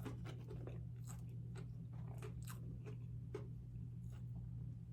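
Close-up chewing and crunching of crispy fried food: a string of short, sharp crunches over a steady low hum.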